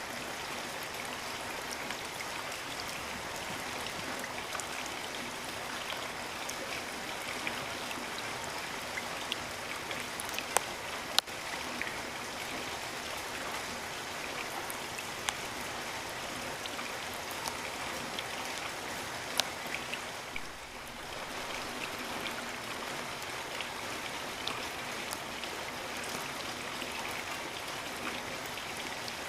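Steady rain, an even hiss scattered with sharp ticks of single drops landing close by. There are a couple of louder drop hits about eleven seconds in and a brief lull around twenty seconds.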